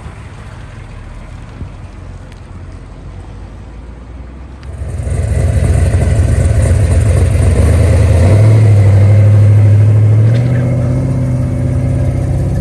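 A car engine running, at first a low rumble. About five seconds in it gets much louder as it is revved. It is held at higher revs for a couple of seconds, then eases back.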